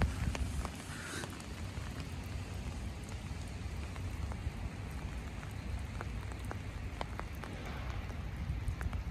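Light rain falling, with scattered single drops ticking close by, over a steady low rumble.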